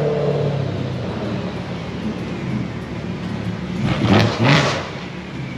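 Car engine running steadily, swelling to a louder surge about four seconds in.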